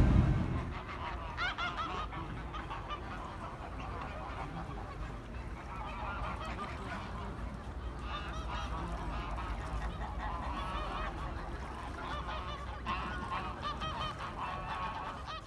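Birds honking over and over, many short calls overlapping, over a low steady rumble.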